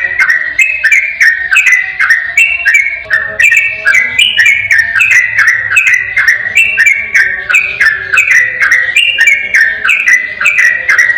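Yellow-vented bulbul singing a long, unbroken run of rapid, bubbling whistled phrases, repeated without pause.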